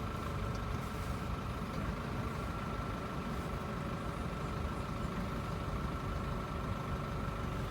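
Nissan Navara's 2.3-litre dCi four-cylinder diesel engine idling steadily just after a push-button start.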